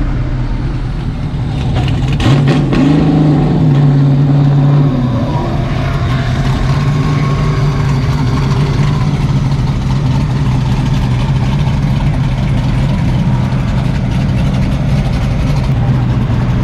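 A car engine revs up about two seconds in, holds a higher, louder note for a couple of seconds, then drops back to a steady idle.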